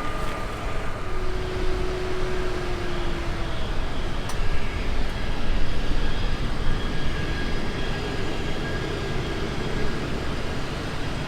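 Jet airliner engines heard across the airfield: a steady low rumble and rush with faint engine whine tones.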